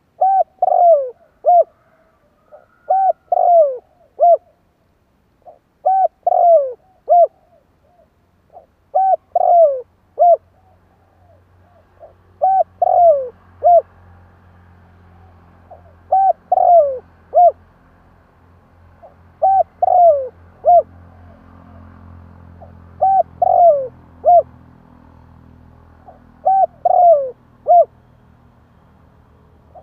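Spotted dove cooing: a short phrase of a few coos, one of them sliding downward, repeated about every three seconds, nine times over.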